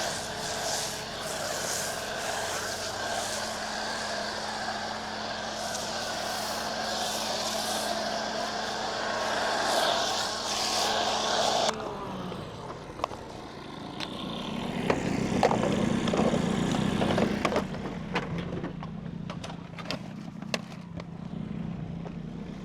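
Pressure washer running and spraying snow foam through a foam cannon: a steady machine hum with spray hiss. It cuts off suddenly about halfway through, and a few knocks and clicks follow.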